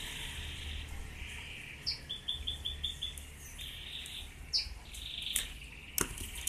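Birds chirping in the background: a short high chirp, then a quick run of five short notes about two seconds in, and another chirp a little later. Two sharp clicks come near the end, over a steady low hum.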